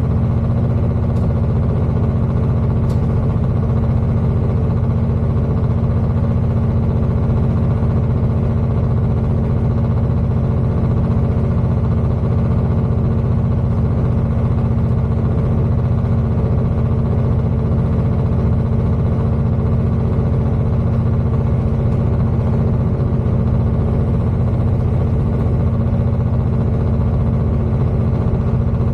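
Steady cabin noise of a Class 221 Super Voyager diesel tilting train running at speed: a constant low drone from its underfloor diesel engines with rumble from the track, unchanging throughout.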